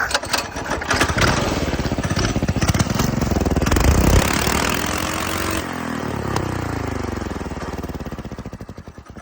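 Go-kart's small engine, choked and fitted with a new 30 mm carburetor, running and revving up to a peak about four seconds in, then slowing with falling pitch and dying out near the end. It keeps stalling, which the owner thinks is because it isn't taking in fuel.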